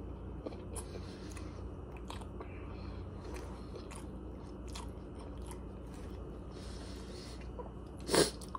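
A person chewing a mouthful of Chinese food (rice, chicken and vegetables) close to the microphone, with many small wet mouth clicks. Shortly before the end there is one brief, much louder noise, over a steady low hum.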